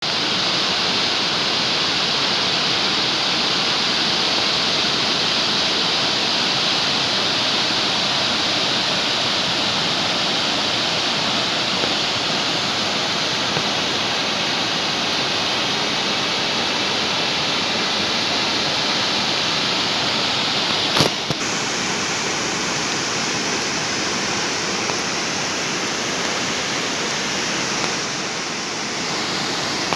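Waterfall: a steady, loud rush of falling water, with one brief sharp click about two-thirds of the way through.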